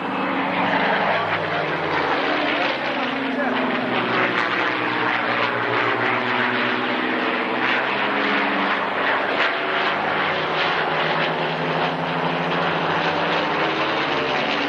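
Spitfire piston aero-engines, Rolls-Royce Merlins, running at display power as the aircraft fly past, their engine note sliding up and down in pitch as they come and go.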